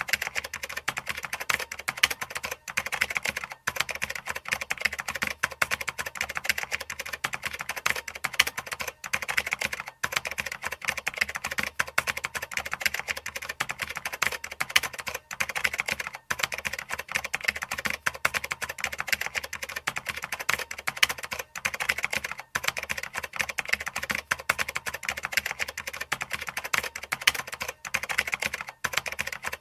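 Continuous fast typing on a computer keyboard: a dense run of key clicks with short pauses every few seconds.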